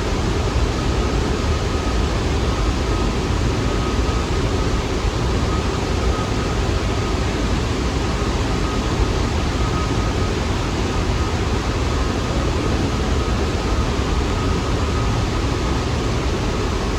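Steady rushing noise of a New York City subway train at the station, with a faint steady tone above it.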